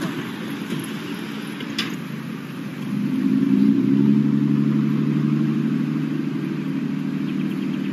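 A car engine running with road noise. About three seconds in, a steady low engine hum grows louder and holds even.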